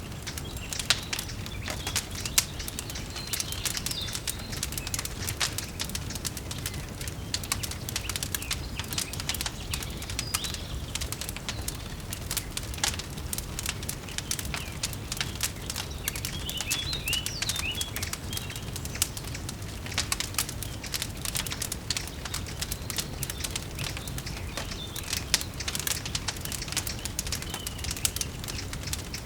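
Wood fire crackling with frequent irregular pops over a steady low rumble, with a few birds chirping now and then.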